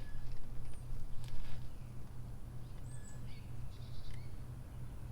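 Small birds chirping in short high calls over a steady low hum, with a light click about a second and a half in.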